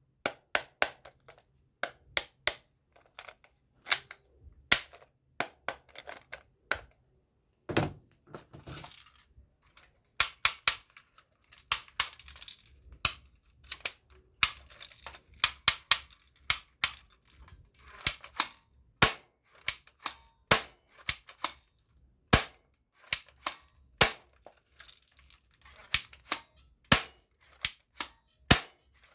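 Plastic toy guns being worked by hand: dozens of sharp clicks and snaps at an uneven pace, some in quick pairs.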